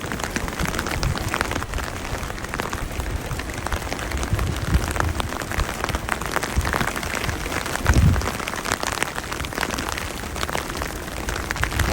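Rain falling steadily, a dense patter of small drop ticks, with brief low bumps, the strongest about eight seconds in.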